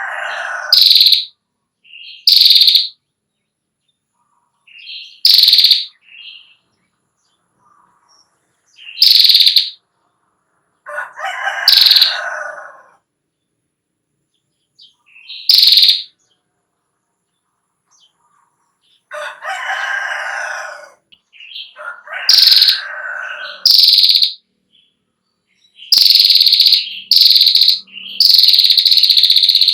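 Female prinia (prenjak klawu) calling in loud separate bursts: short sharp high chirps alternating with longer buzzy, rattling trills, the 'ngetir' chatter. Near the end the high calls run almost without a break.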